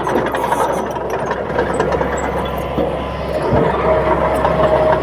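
Komatsu D31P bulldozer's diesel engine running steadily, with a higher steady whine joining near the end.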